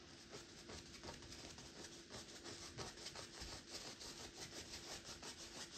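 Paintbrush scrubbing back and forth, bristles rubbing over canvas or palette in quick strokes about five a second.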